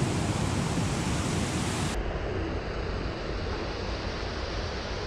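Ocean surf washing on a beach, with wind rumbling on the microphone. About two seconds in the sound changes abruptly, the wind rumble dropping and a steadier rush of surf remaining.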